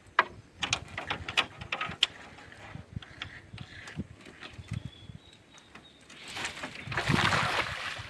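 Fishing reel clicking as line is wound in, a quick run of small ratchet clicks that thins out. Near the end a rushing noise swells up.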